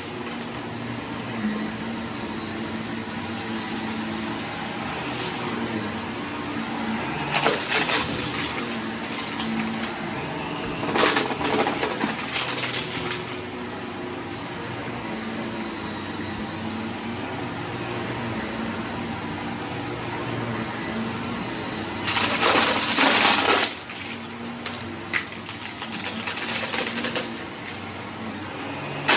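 Vacuum cleaner running steadily, with a few louder gritty bursts as debris is sucked up, the longest about a second and a half long.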